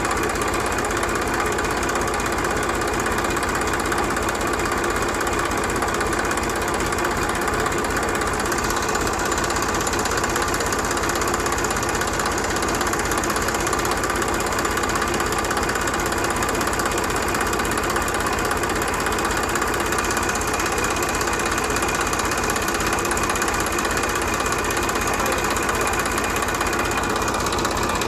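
Small engine of a homemade mini tractor running steadily at an even speed, with a fast, even beat.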